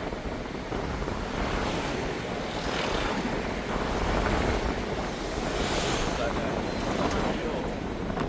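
Wind buffeting the microphone over the steady rush of a vehicle moving along the road, with the low rumble rising and falling.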